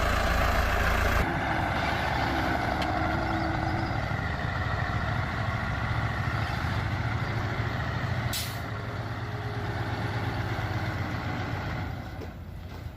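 Truck engine running steadily, with a short hiss about eight seconds in; it drops away near the end.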